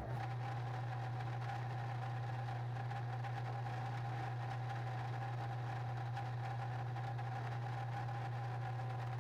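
A machine running steadily, with a constant low hum and a fainter steady higher tone, starting abruptly at the opening.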